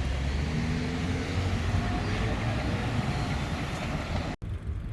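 Low rumble of wind on the camera microphone while riding a bicycle, with a faint steady hum. It cuts off abruptly about four seconds in.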